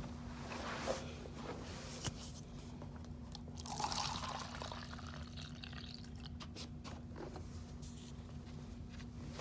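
Concentrated carpet-cleaning solution being poured from a jug into a cup, the main splashy pour about four seconds in, with scattered clicks and knocks of handling the jug and cup.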